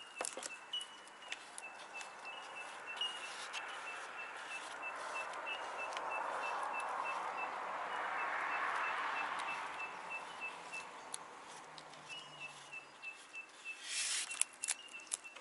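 Outdoor ambience: a bird repeating a high chirp about three times a second, over a rushing noise that swells and fades over several seconds in the middle. Light clicks and taps come and go throughout.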